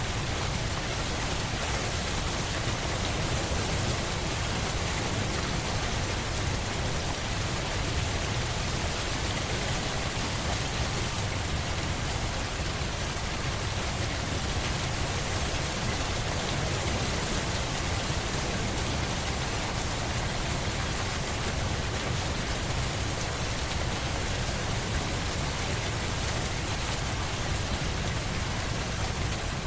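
Steady rainfall, an even hiss of rain on a surface with a low rumbling undertone, unchanging throughout.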